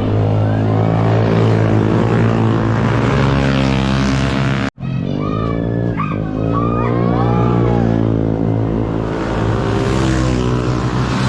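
Motorcycle engine running steadily while riding, its pitch dipping and rising again a little after halfway. The sound drops out briefly near the middle.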